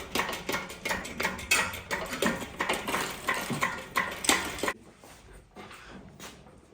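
Rapid, irregular clicks and knocks from the engine hoist and chain as the old engine is lifted out of the truck's bay. The clicks are louder at first and fall off sharply a little over halfway through.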